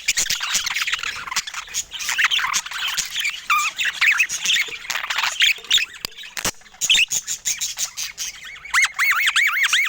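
Budgerigars chattering and warbling, with squawks and clicks, ending in a quick run of repeated chirps.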